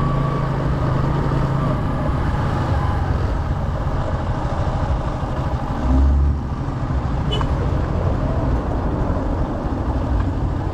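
Motorcycle engine running steadily while riding, with a constant rush of road and wind noise. About six seconds in there is a brief low thump.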